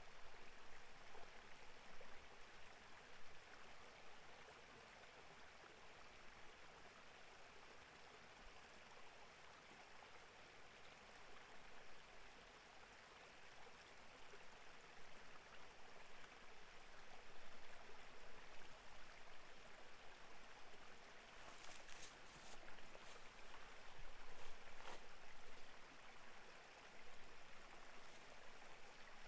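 Clear mountain-valley stream flowing, a steady, soft rush and babble of water. A few brief clicks or splashes sound about 22 and 25 seconds in.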